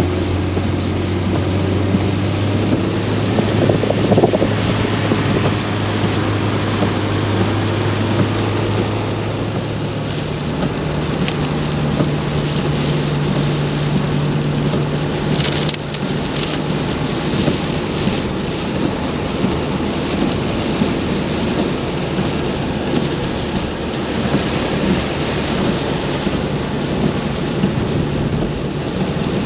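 Steady rush of water in a heavy flood downpour, with a low engine hum underneath that rises in pitch about ten seconds in.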